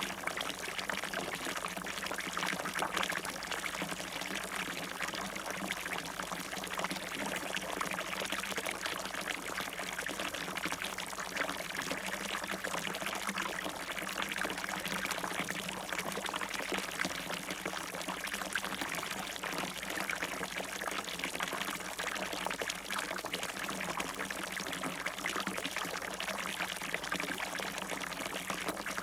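Water falling and splashing in a fountain, a steady, even rush of splashing.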